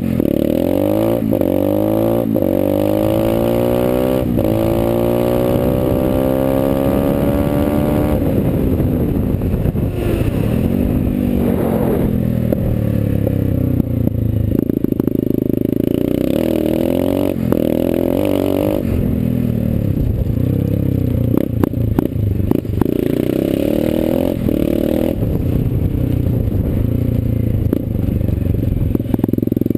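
Dirt Runner mini dirt bike engine under way, its pitch climbing steadily as it accelerates over the first several seconds, then rising and falling again and again with the throttle, with occasional sharp knocks.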